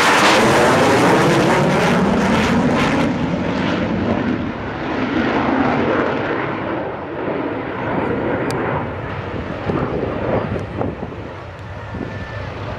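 F/A-18 Hornet's twin jet engines passing close overhead, loudest at the start, then fading away as the jet moves off, the high hiss dying out first and leaving a lower rumble.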